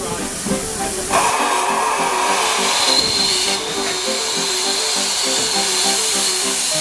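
Steam locomotive letting off steam: a loud, steady hiss that starts about a second in, over background music with a repeating melody.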